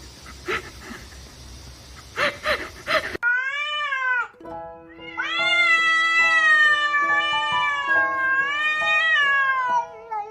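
A cat meows once, then gives a long, wavering, drawn-out yowl lasting about five seconds, over background music with held notes. Before that there are a few short soft sounds over a hiss.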